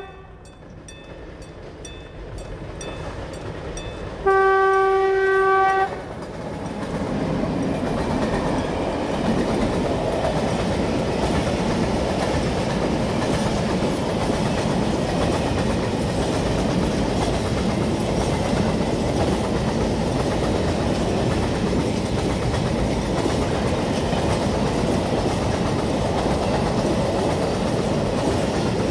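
Horn of the ŽFBH 441-511 electric locomotive (ex-JŽ 441 series) giving one loud blast about four seconds in, lasting about a second and a half, as a salute to the trainspotter. The blast is followed by the steady rumble and clatter of a long train of open freight wagons rolling past.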